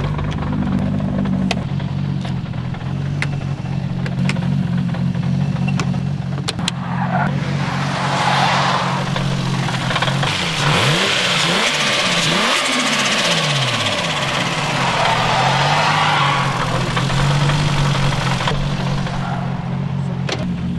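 Toyota Chaser's 1.5JZ straight-six running at a steady idle, with a few sharp clicks early on. About seven seconds in a loud rushing noise rises, and the engine pitch sweeps down and up several times before it settles back to idle near the end.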